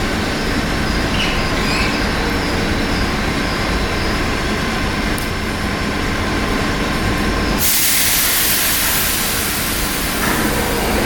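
Merseyrail PEP electric multiple unit running through the station, a steady rumble of train noise. A sudden hiss joins in about eight seconds in.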